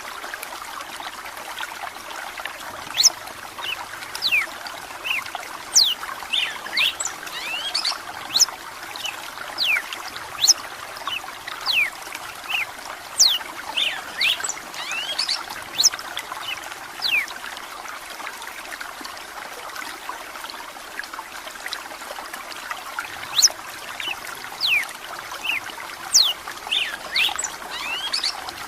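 Running water trickling and bubbling steadily, with many quick, high, sharp notes scattered irregularly throughout.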